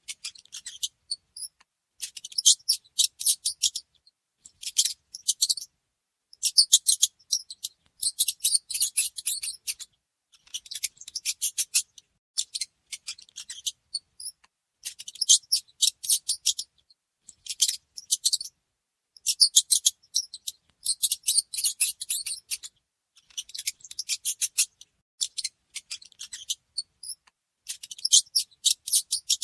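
Mice squeaking and chittering: quick trains of sharp, high-pitched clicks that come in bursts of one to two seconds, with short pauses between.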